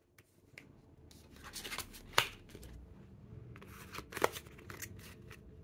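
Paper handling: tarot cards and guidebook pages rustling and flicking, with two sharper snaps about two and four seconds in.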